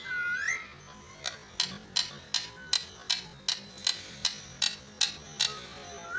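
Parrot giving a short whistled call, then a run of about a dozen sharp, evenly spaced clicks, a little under three a second.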